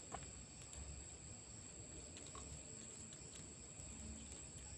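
Steady high-pitched chirring of crickets at night, faint, with a few soft clicks.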